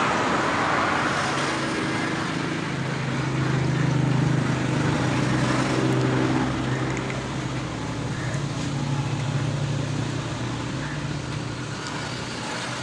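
Steady motor hum with a low, slightly wavering pitch over a noisy rush, without clear knocks or blows.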